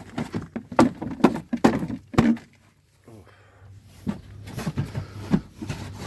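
Plastic inner fender liner being worked into a car's wheel well: irregular knocks, clicks and scrapes of stiff plastic against the body, with a brief pause about halfway.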